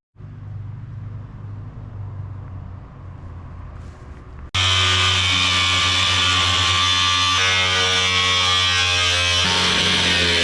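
A small electric motor hums steadily at a low pitch. About four and a half seconds in, loud music cuts in suddenly, its chords changing twice.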